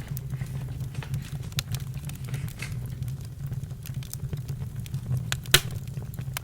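Campfire crackling: wood burning with irregular sharp pops over a low, steady rumble, and one louder pop about five and a half seconds in.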